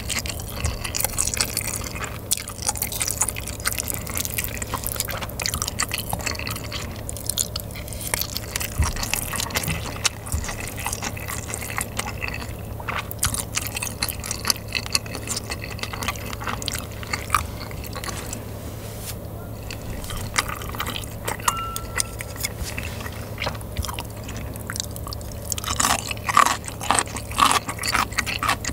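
Close-miked chewing of rice mixed with spicy sauce, with wet, sticky mouth sounds. Chopsticks and a metal spoon click against the bowl now and then, more loudly near the end.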